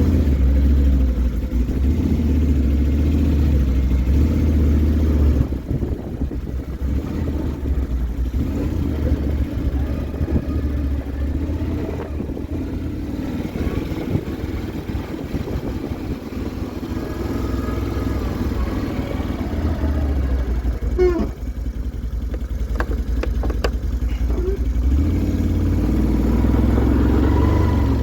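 Quad (ATV) engine running as it is ridden, louder at the start, easing off about five seconds in and picking up again near the end.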